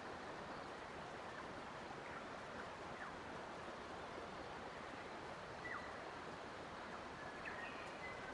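Steady, faint rush of flowing water, with a few short, thin bird chirps scattered through it, about two seconds in, three seconds in, and a cluster near the end.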